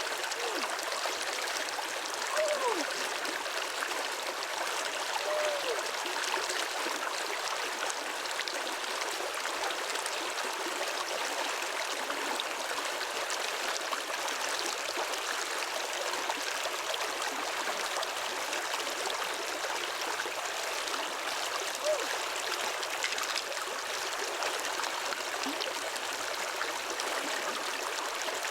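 Steady rush of flowing water, with a few brief gurgles.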